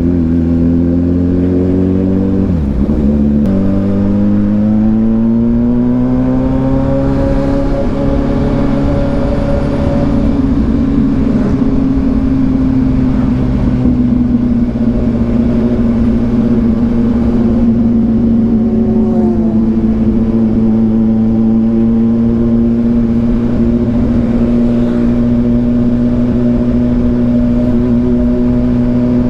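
Kawasaki Ninja 1000SX inline-four with an aftermarket AR exhaust pulling up through the revs, dropping pitch at a gear change about three seconds in, climbing again, then settling into a steady cruise.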